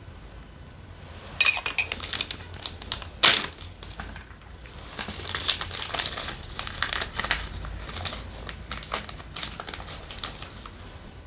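Small metal engine parts and hand tools being handled, making sharp clicks and clatter. Two loud clicks come in the first few seconds, then a long run of quick, light tapping and clicking.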